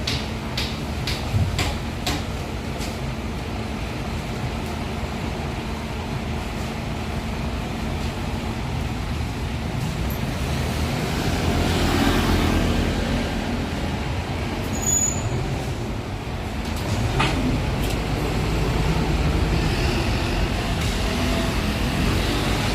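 Heavy diesel truck engine running in street traffic, a deep steady rumble with a few sharp clicks early on, growing louder around the middle and again near the end.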